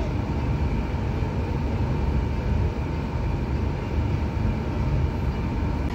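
Steady low rumble of a moving passenger train heard from inside an executive-class coach, with a faint steady hum on top.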